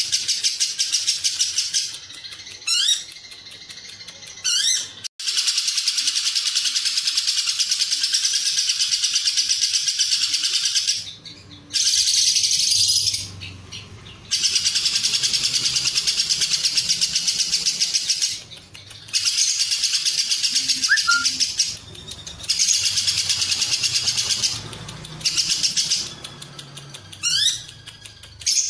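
Lovebird singing its long 'ngekek' chatter: runs of fast, high-pitched trilling that go on for several seconds at a time, broken by short pauses, with a few quick rising whistles.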